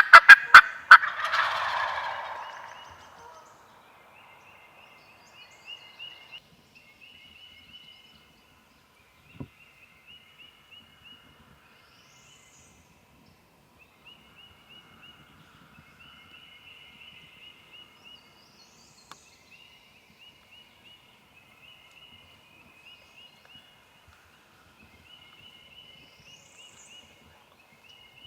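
Wild turkey gobbler gobbling loud and close: one rapid, rattling call right at the start that trails off over about three seconds. After it there are only faint, high, repeated notes.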